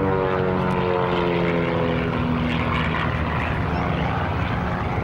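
Piston engines and propellers of Pitts Special aerobatic biplanes flying a display pass. The engine note falls in pitch over the first couple of seconds as an aircraft goes by, then carries on as a steadier drone.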